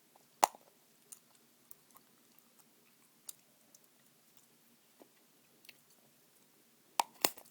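Close-miked gum chewing: scattered small wet clicks, with a loud sharp snap about half a second in and two more in quick succession near the end.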